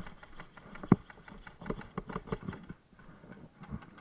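Irregular footsteps and light knocks of carried gear as a player moves, with one sharper knock about a second in.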